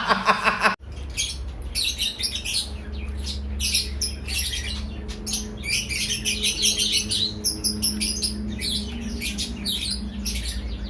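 Small birds chirping and squawking in quick, irregular calls over a steady low hum, beginning after a sudden cut about a second in.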